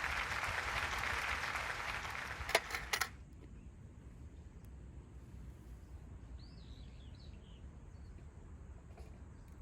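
A steady hiss that ends with two sharp clicks and cuts off about three seconds in, followed by faint outdoor background with a few birds chirping.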